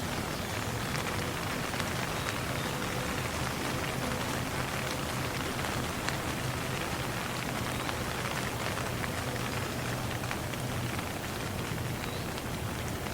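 Steady rain falling, with many individual drops ticking through a constant hiss.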